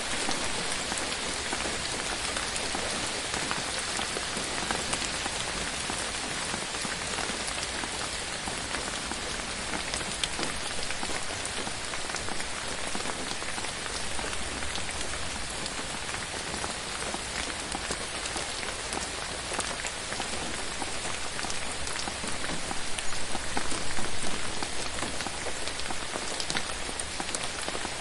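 Steady rain falling on forest leaves, an even hiss dense with the tapping of individual drops, swelling briefly a little past three-quarters of the way through.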